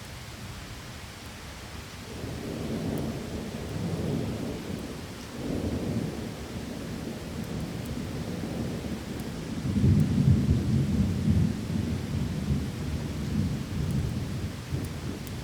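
Rolling thunder over steady rain. The low rumble comes in swells about two seconds in and again midway, with the loudest peal about two-thirds of the way through.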